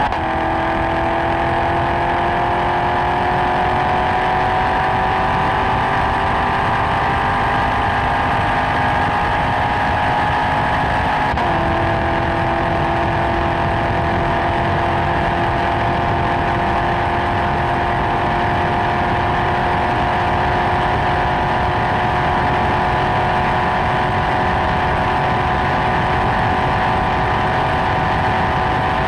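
C7 Corvette V8 engine and exhaust running under steady, gentle acceleration, its note rising slowly. About eleven seconds in, the pitch drops at a gear change, then keeps climbing.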